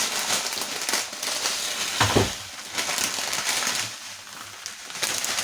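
Dry vermicelli noodles crackling and rattling as they are handled, with a dull thump about two seconds in.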